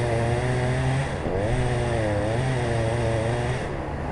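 Chainsaw engine running, its speed rising and falling in slow waves, with a brief dip about a second in.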